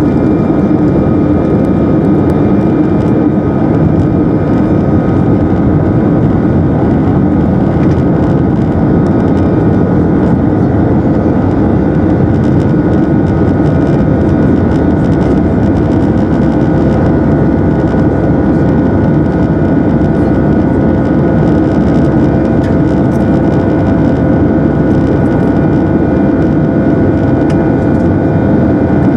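Steady jet engine noise and airflow rush heard inside the cabin of an Airbus A319 airliner, with a few steady whining tones over a deep rumble and no change in pitch or level.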